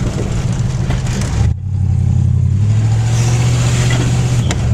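Carbureted Chevy 305 small-block V8 running loudly with no exhaust system. The engine note dips briefly about one and a half seconds in, then settles slightly higher.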